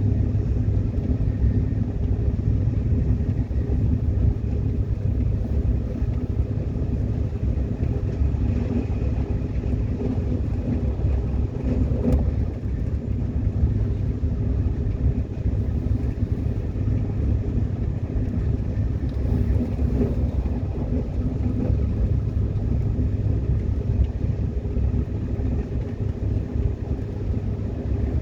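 Subway train running, a steady rumble of wheels on rail and traction motors heard from on board, with faint steady humming tones and one brief click about twelve seconds in.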